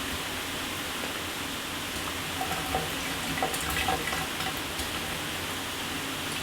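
Shower running: a steady spray of water with a few brief louder splashes of drops about halfway through.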